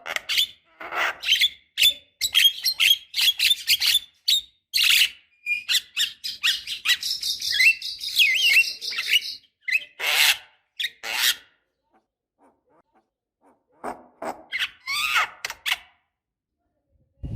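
Javan myna singing: a rapid, chattering run of harsh, scratchy notes mixed with short whistled glides. It breaks off for about two seconds, then gives a few more harsh notes.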